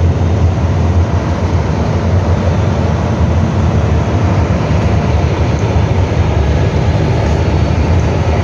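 Scania F360HA articulated bus running with a steady, loud low diesel rumble and road noise, holding an even pace with no revving or braking.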